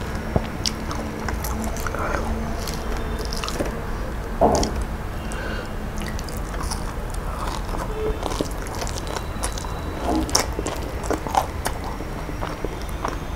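Close-miked chewing, biting and wet mouth smacks of a person eating fried fish and shrimp pilaf by hand, with scattered short clicks throughout and one louder smack about four and a half seconds in.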